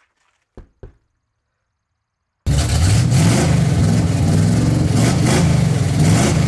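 Two quick knocks, then about two and a half seconds in a car engine starts up loud and keeps running, its pitch rising and falling as it is revved.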